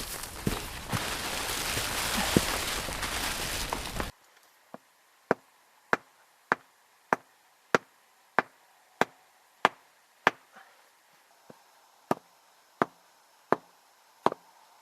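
A steady series of sharp knocks of a hand tool striking wood, chopping or hammering, about one and a half strikes a second. It is preceded by a few seconds of loud rustling noise that cuts off abruptly about four seconds in.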